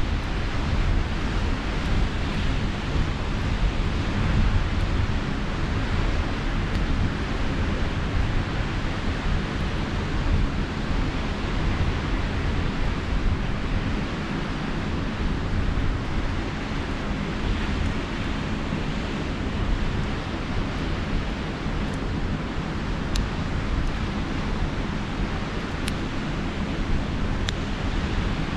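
Steady wash of sea surf and wind, with a low rumble of wind on the microphone. A few faint crackles from a beach campfire in the last few seconds.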